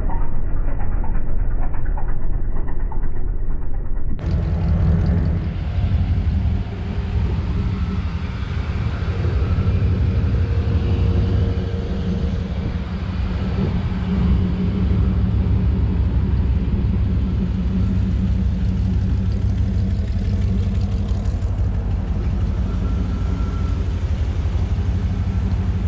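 A 1957 Chevrolet 3100 pickup's 350 V8 running with a steady low rumble. About four seconds in, the sound changes abruptly from muffled and dull to fuller and clearer.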